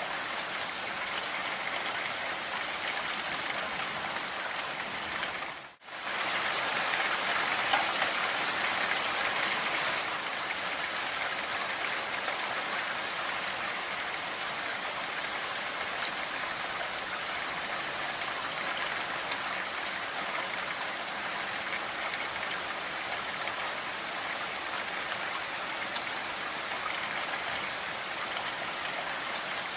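Steady rainfall, a dense even patter of drops. It drops out for a moment about six seconds in, then comes back a little louder for a few seconds before settling again.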